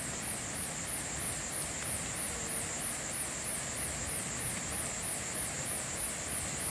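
Insect calling with a high, shrill buzz that pulses evenly about three times a second, over the faint steady hiss of drizzling rain.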